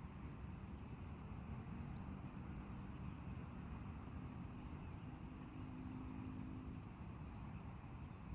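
Strong wind rumbling on the microphone, with a few faint, short, high bird chirps and a faint low steady tone in the middle.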